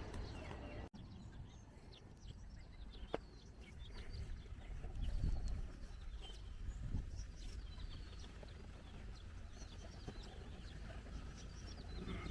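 Birds chirping in short, scattered calls over a steady low rumble outdoors, with one sharp click about three seconds in.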